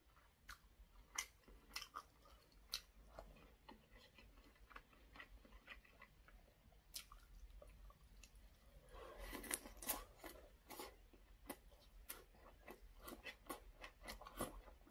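Faint close-up mouth sounds of a whole braised saury wrapped in aged kimchi being eaten: scattered wet clicks, then a busier stretch of chewing about nine seconds in.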